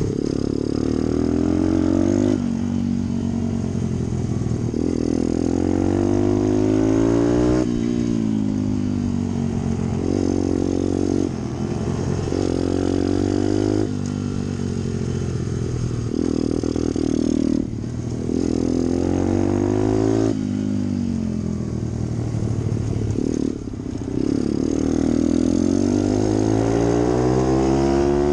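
Pit bike engine revving hard through its gears, with the pitch climbing over and over and dropping sharply at each shift or roll-off.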